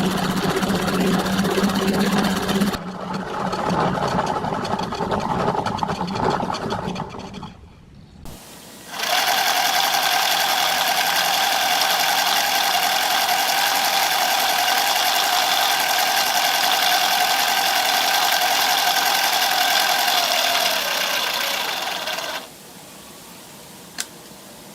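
Motor-driven machinery running in two stretches. First a low-humming run for about eight seconds, then after a short lull a steady, higher-pitched whine for about thirteen seconds that cuts off suddenly. A single click comes near the end.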